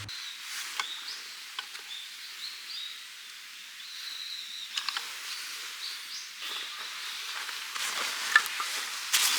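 Outdoor ambience: a steady hiss with short, high bird-like chirps and scattered sharp clicks and crackles, the loudest near the end.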